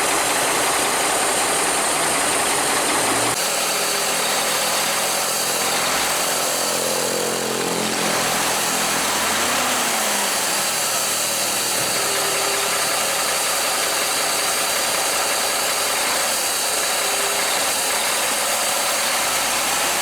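A heavy vehicle's engine running steadily under a constant hiss, with faint shifts in engine pitch about a third of the way in and again a little past halfway.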